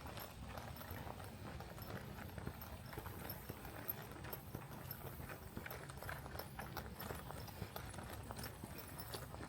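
Footsteps of a person walking on a trail: a steady run of short taps and crunches over a low rumble.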